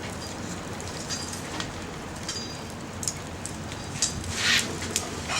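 Small wood fire of twigs and scrap wood burning, crackling steadily with scattered sharp pops and a brief louder hiss about four and a half seconds in.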